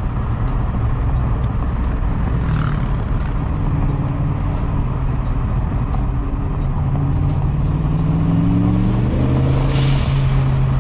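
Turbocharged 302 V8 of a Foxbody coupe running under way, heard inside the cabin. The engine holds a steady note, then rises in pitch from about six to nine seconds in as it pulls, with a short hiss near the end.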